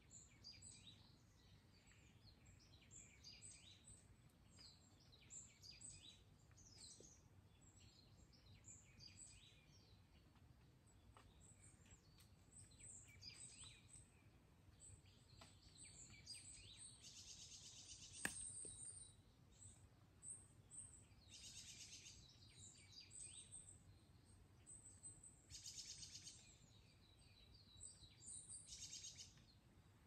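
Faint chorus of woodland birds: many short high chirps and calls, with a few rapid trills of about a second each. A single sharp click sounds once, a little past halfway.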